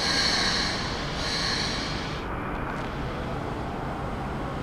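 A Keikyu 600-series electric train pulling slowly into the platform, with a steady running rumble. Two brief high-pitched sounds come in the first two seconds.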